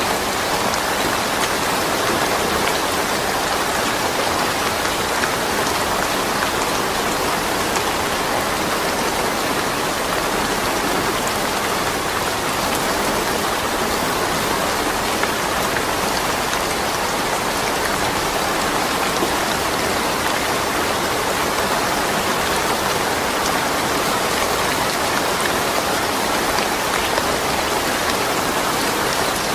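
Steady rain falling, with a constant hiss and fine patter of drops and no thunder.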